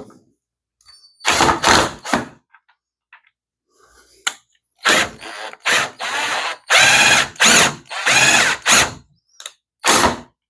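Power drill run in a series of short trigger bursts on a screw in the plastic ladder frame: three quick bursts, then a longer run of pulses from about five to nine seconds in, and one more near the end.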